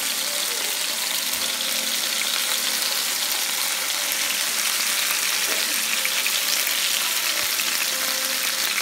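Chicken breast pieces sizzling steadily as they fry in oil in a nonstick skillet, with light clicks and scrapes of a metal fork turning them over.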